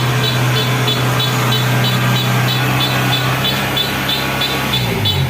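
Engine of a Kubota tracked combine harvester running steadily at a low hum, with a high, regular pulsing sound about four times a second on top. The engine note dips briefly near the end.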